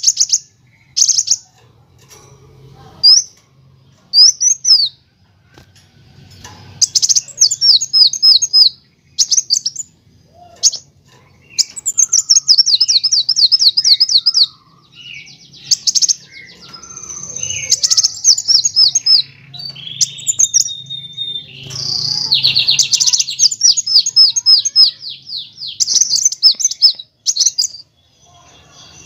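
Kolibri wulung sunbird singing: bursts of rapid trilling runs of high, downward-sliding notes, each lasting one to three seconds, broken by single sharp chips and short pauses.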